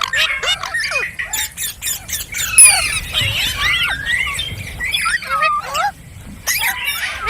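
Indian ringneck parrot chattering in quick whistles, squawks and chirps that slide up and down in pitch, with a loud sharp squawk about two and a half seconds in and a brief lull near six seconds.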